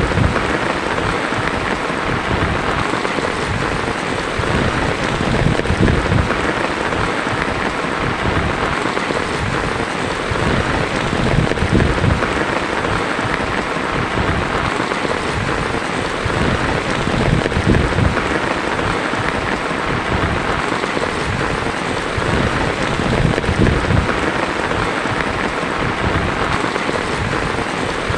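Heavy rain falling steadily on a tin roof, a dense, even hiss with a fluttering low end.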